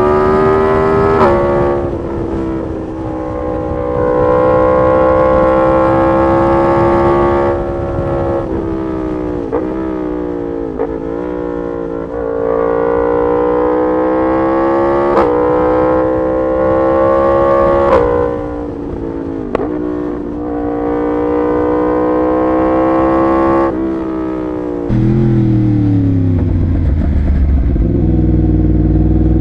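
Yamaha MT-10 SP's crossplane inline-four engine through an SC Project exhaust, under way: the note climbs and then drops sharply at each of several gear changes. Near the end the revs fall to a low, deep note that keeps sinking.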